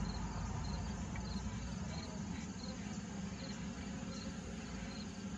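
Honeybees buzzing around an opened hive: a steady low hum, with a faint high chirp repeating about three times a second.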